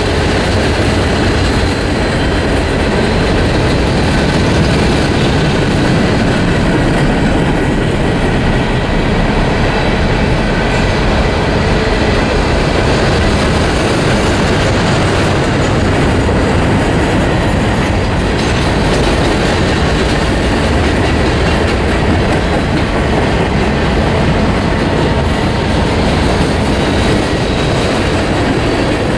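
Norfolk Southern freight cars rolling past close by at steady speed, a continuous loud rumble with the clatter of steel wheels over the rail joints.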